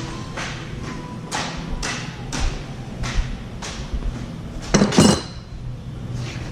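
Irregular sharp metal knocks and taps, roughly one every half second to a second, with a louder cluster of clanks about five seconds in, over a steady low hum: pins and tools being handled.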